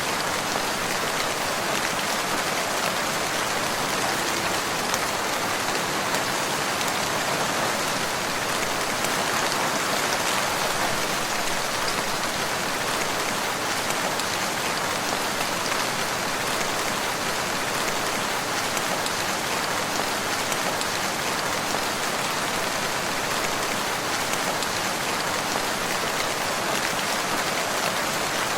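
Steady rain falling and pattering on surfaces, an even hiss with fine drop impacts throughout.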